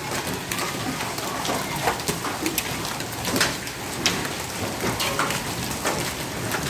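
Hailstorm: rain hissing steadily, with hailstones landing in scattered sharp knocks and clicks.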